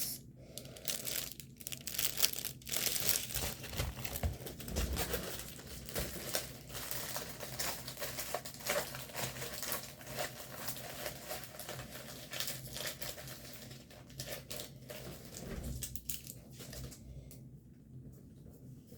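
Plastic packaging of a diamond painting kit crinkling and rustling as it is handled, in a dense run of small irregular crackles.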